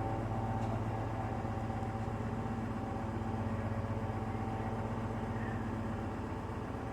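Steady low hum of an engine idling, with a faint steady higher tone above it.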